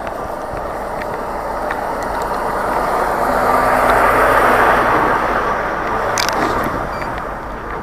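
A vehicle driving past, its engine and tyre noise swelling to a peak about four seconds in and then fading.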